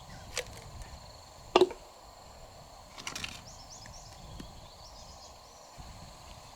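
A few sharp clicks and knocks of hard objects, the loudest about a second and a half in and another cluster about three seconds in, over a steady low hiss with faint high chirps.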